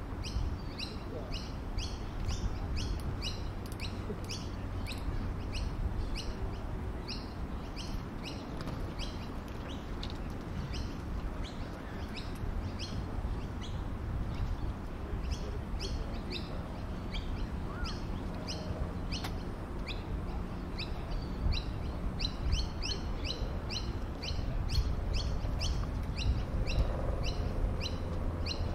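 Small birds chirping continuously, two or three short high chirps a second, over a low steady background rumble.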